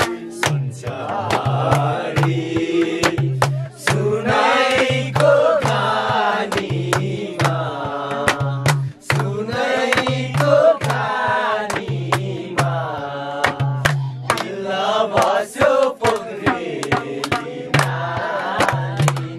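Voices singing a Nepali folk song with a steady percussive beat.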